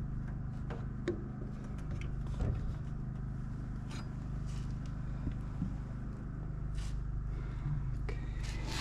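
A steady low engine hum runs throughout, with scattered small clicks and taps over it.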